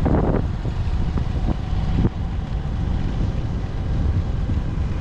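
A motorbike riding through city traffic: its engine runs steadily under a heavy low rumble of wind on the microphone, with a few short knocks in the first two seconds.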